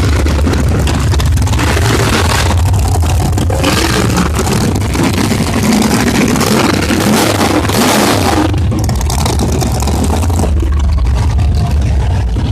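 Monster truck engines running loud with a deep rumble, surging in revs several times and easing off somewhat near the end.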